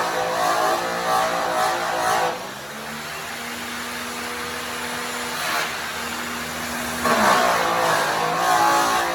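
Makita angle grinder fitted with an airway buff, cutting an aluminum truck wheel with polishing compound: the motor runs strained and rough under load. About two seconds in, the buff comes off the metal and the motor spins freely with a quieter, steadier, higher hum. About seven seconds in it bites back into the wheel with the louder, rougher sound.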